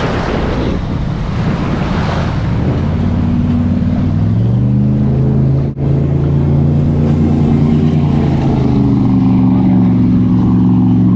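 Wind and water noise, then from about three seconds in a steady motor drone that holds one pitch.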